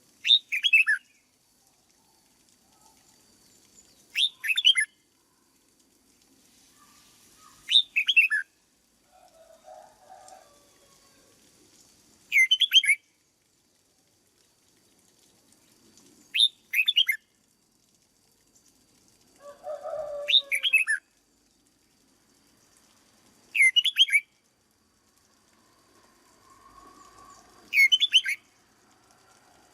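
Red-whiskered bulbul singing short song phrases, eight in a row, one about every four seconds.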